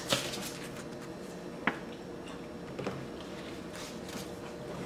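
Quiet room tone with faint chewing and a few soft, short mouth clicks, over a low steady hum.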